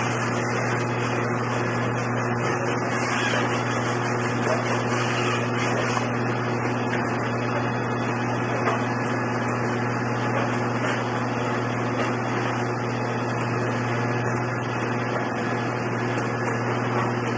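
Diesel locomotive engine idling: a steady, unchanging low drone.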